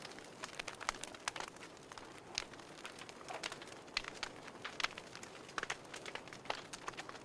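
Wood fire burning in a fireplace, crackling and popping: many sharp irregular snaps over a soft hiss of the flames.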